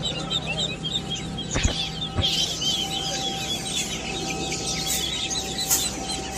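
Many caged birds chirping at once, a dense, unbroken chatter of short calls, with a couple of knocks about two seconds in.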